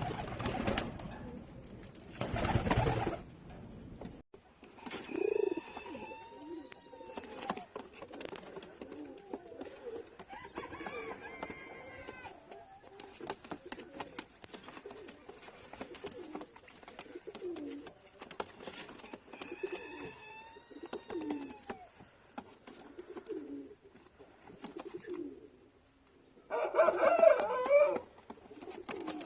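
Domestic pigeons cooing, repeated short rising-and-falling calls, with many faint clicks and scuffles. Two loud rustling bursts come in the first three seconds, and a louder burst near the end.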